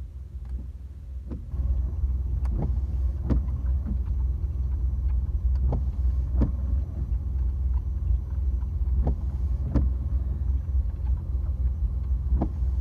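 Low, steady rumble of a big truck driving, heard inside the cab, getting louder about a second and a half in. Windshield wipers sweep back and forth over a wet windshield, making a pair of short strokes about every three and a half seconds.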